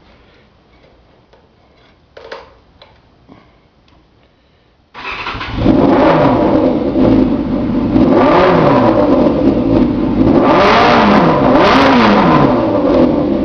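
Yamaha YZF600R sport bike's inline-four engine, through a D&D aftermarket exhaust, starting suddenly about five seconds in after a few faint knocks. It then runs loud and is revved up and back down a few times.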